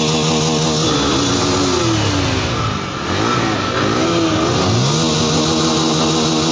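Motorcycle engine just after a cold start, revved by hand on the throttle. The revs are held up, drop back about a second in and are blipped a few times, then rise and hold again near the end.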